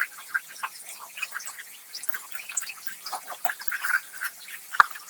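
Rice flour cake frying in hot oil in a pan, with dense, irregular crackling and popping and one sharp knock near the end.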